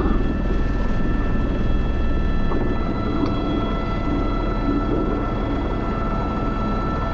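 Airbus H125 helicopter in flight with a sling load on the hook: its turbine whine and rotor run as a steady drone, several constant high tones over a dense low rumble.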